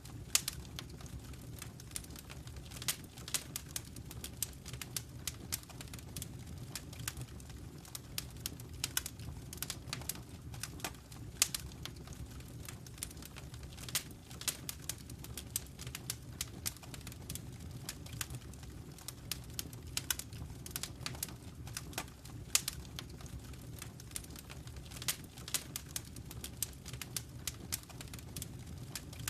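Wood fire crackling in a fireplace: irregular sharp pops and crackles, several a second, over a steady low rumble of the flames.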